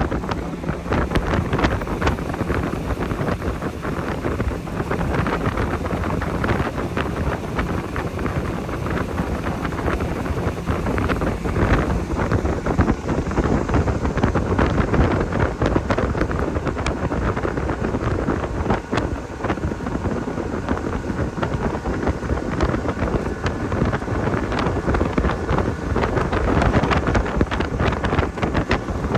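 Heavy wind buffeting the microphone of a motorboat under way, over the steady run of the motor and water rushing past, with frequent irregular knocks.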